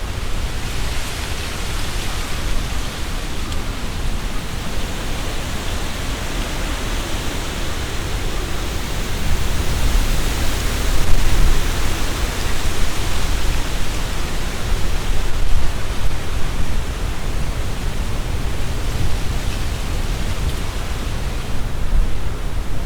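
Strong wind gusting through trees, the leaves rustling in a dense steady hiss over a low rumble. The gusts swell loudest about ten seconds in and again a few seconds later.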